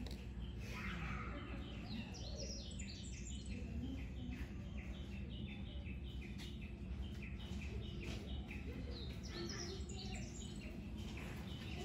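A small bird singing two long runs of quick, short chirping notes, each run stepping down in pitch, over a steady low rumble.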